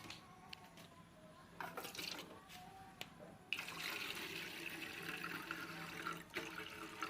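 Water running in a steady stream, starting about halfway through after a few light knocks and clatters, with a faint steady hum underneath.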